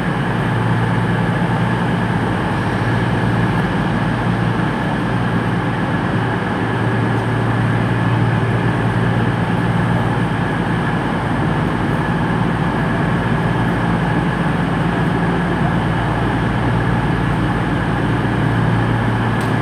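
Class 221 Super Voyager diesel-electric trains running at the platform, a steady low engine drone, as the second unit draws up to couple with the first.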